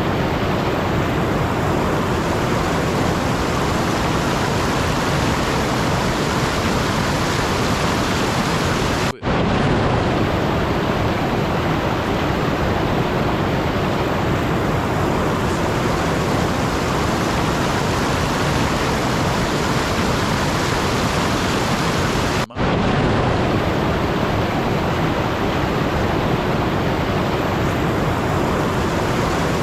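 Steady, even rushing noise with no rhythm or tone, broken by two brief dropouts, about nine seconds in and about twenty-two seconds in.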